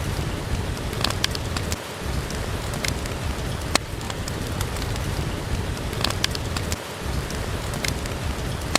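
Steady rain, an even hiss with a deep low rumble, with a handful of sharp pops from a crackling wood fire scattered through it.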